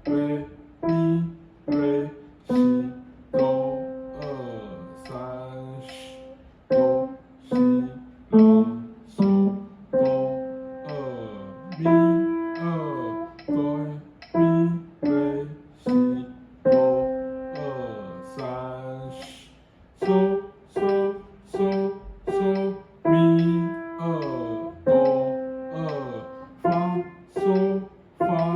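Piano playing a simple beginner practice piece, melody notes over low bass notes at an even pace of about two notes a second.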